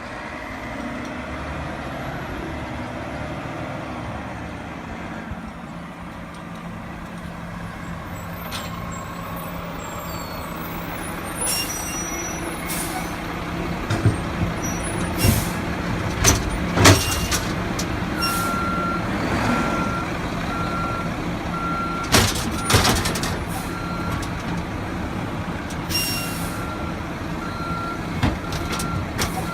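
Refuse truck engine running steadily, with loud metallic bangs and clanks through the second half. From a little past halfway, a reversing alarm beeps at an even pace.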